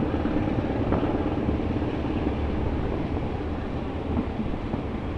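Diesel-hauled passenger train running, heard from inside a carriage: a steady rumble of the wheels on the rails.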